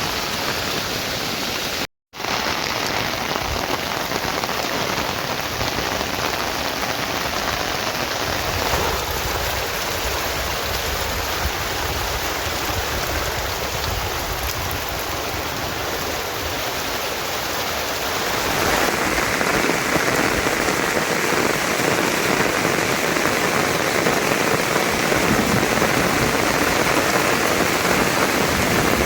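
Steady rain falling. It cuts out for a moment about two seconds in, and from about two-thirds of the way through it is louder and brighter.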